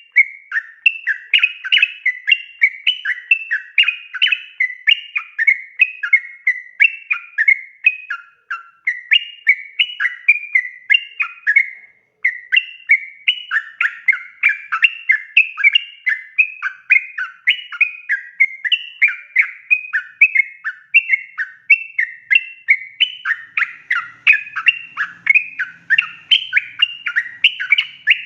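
Yellow-vented bulbul (trucukan) singing a long, rapid run of short bubbly whistled notes, several a second, with brief breaks at about eight and twelve seconds in. This is the long continuous song run (ropel panjang) kept-bird keepers play as a lure to make other bulbuls answer.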